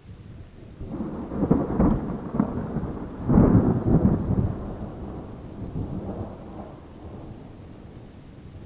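Thunder: a clap that breaks in with crackling, peaks twice about a second and a half apart, then rumbles away slowly, with rain falling.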